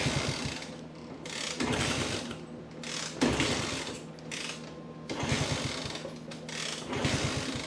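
Honda C200's single-cylinder pushrod engine being kick-started with the choke on: about five kicks, each turning the engine over briefly, and it never fires.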